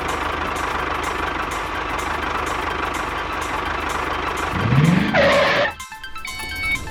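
Small motor running steadily. About four and a half seconds in there is a brief rising sweep and a short loud burst, then it cuts off and music with plucked tones takes over near the end.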